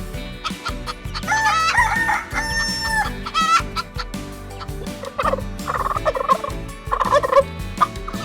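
A rooster crowing once, a long cock-a-doodle-doo, then chickens clucking in short repeated calls.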